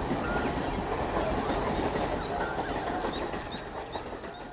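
Train running past on the rails, its wheels rumbling and clattering on the track with a few brief faint squeaks. The sound fades away toward the end.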